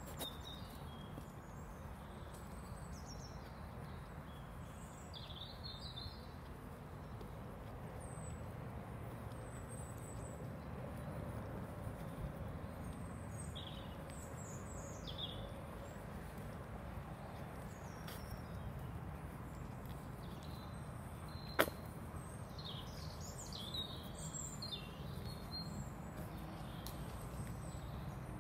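Small birds chirping and calling on and off over a steady low rumble, with one sharp click about three-quarters of the way through.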